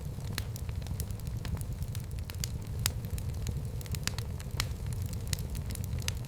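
Fire burning in a fireplace: a steady low rumble of flames with irregular sharp crackles and pops, about two a second.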